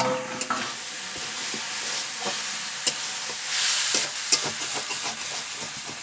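Cabbage and potato curry sizzling in an aluminium kadhai while a metal spatula stirs and scrapes it, with many small clinks of the spatula against the pan. It opens with a ringing metal clank as the lid comes off. The sizzle swells about halfway through.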